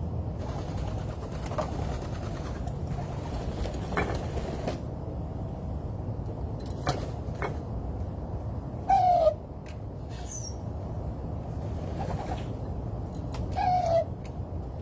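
Two loud, short, harsh bird calls falling in pitch, about four and a half seconds apart, with a brief high chirp between them, over a steady low background rumble.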